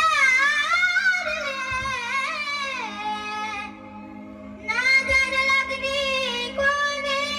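A young child singing a bending melodic line in two phrases with a short break about halfway, over a steady held accompaniment note.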